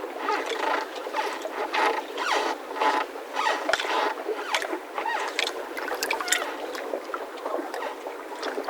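Mooring ropes of boats in a yacht harbour squeaking and creaking under strain as the moored boats shift, a dense, irregular run of short squeaks.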